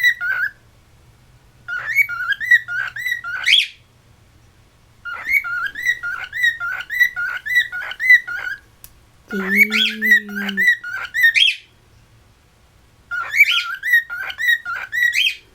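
Cockatiel singing a chattering whistled song in short phrases of quick, warbling notes, about five phrases with pauses of roughly a second between them.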